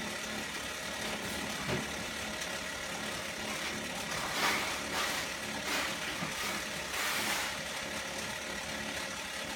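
A BD-V2100 unit running with an abnormal mechanical noise: a steady hum and whirr, with several louder rasping swells about halfway through.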